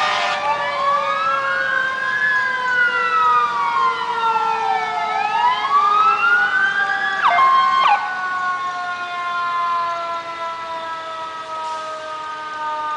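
Fire engine sirens wailing in a slow rise and fall over several overlapping steady siren tones; the wail breaks off about eight seconds in while the steady tones carry on.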